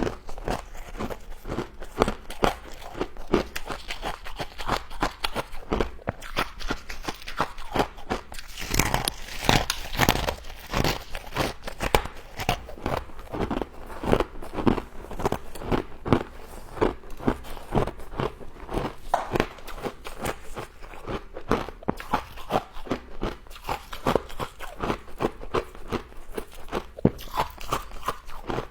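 Frost being bitten and chewed: a dense, continuous run of crisp crunches and crackles as the ice crystals are crushed.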